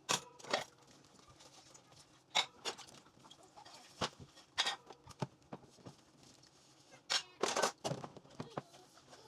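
Irregular clinks, knocks and a brief rattle of dishes and kitchenware being handled by hand.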